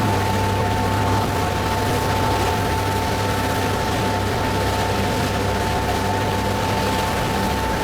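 Passenger ferry under way: its engines drone steadily with a constant high-pitched whine above them, over a steady rush of wind and water.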